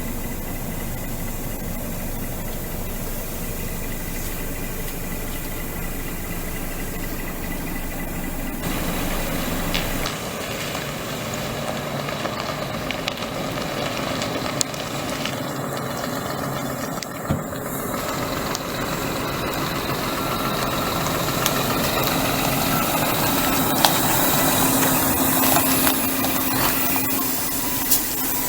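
Scania 124L 420 lorry's 11.7-litre diesel engine running steadily, getting gradually louder in the second half.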